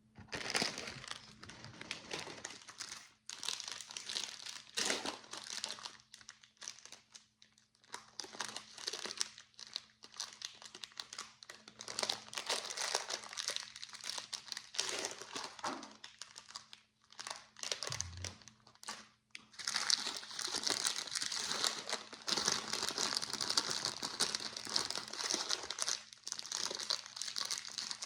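Plastic bag of micro bricks crinkling and rustling as hands rummage through it. The sound starts suddenly and gets busier and louder about twenty seconds in.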